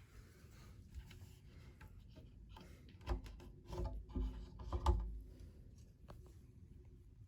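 Indoor handling sounds: rubbing with scattered clicks, and a cluster of knocks and thumps about three to five seconds in.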